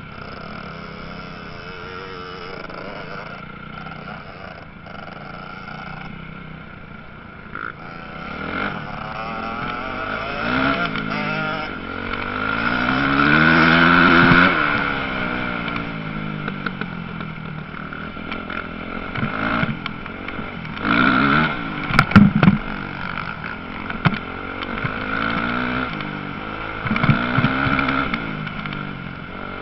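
Motocross bikes revving around a dirt track, the engine pitch rising and falling as they accelerate and shift. One passes close in the middle, swelling loud and then dropping away. Later comes a sharp knock among more revving bursts.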